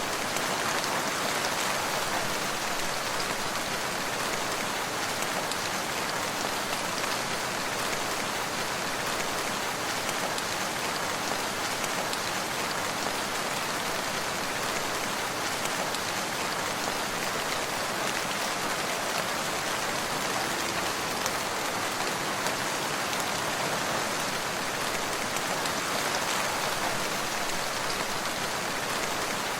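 Steady rain falling and pattering on surfaces, an even hiss of many drops with no let-up.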